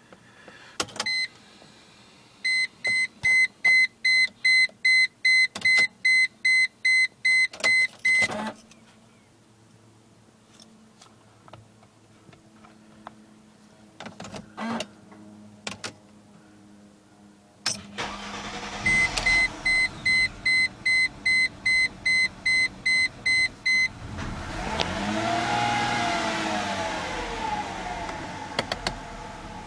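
Car warning chime beeping about twice a second, stopping, then beeping again. Near the end the Mercedes C240's V6 engine starts, revs up and drops back to a steady idle: the rough idle that was traced to a failing fuel pump.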